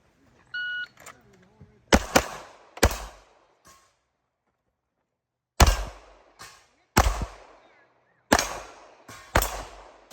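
Shot timer beeps, then a stage of pistol shots: three quick shots about two seconds in, a pause of nearly three seconds, then more shots about a second apart.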